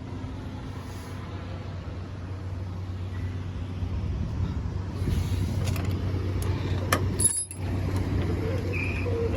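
Semi truck's diesel engine idling steadily, with scattered mechanical clicks and clanks and one sharp clack a little after seven seconds in.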